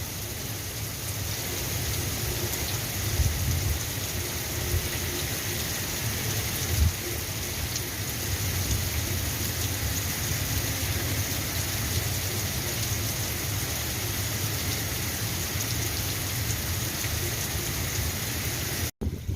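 Steady rain falling, an even hiss with a low, uneven rumble underneath. It cuts out abruptly near the end.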